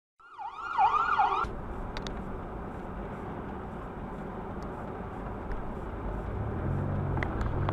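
An emergency-vehicle siren in a fast warbling yelp for about a second, cutting off abruptly. Steady road and engine noise of a moving car follows, as heard from inside the vehicle by a dashcam.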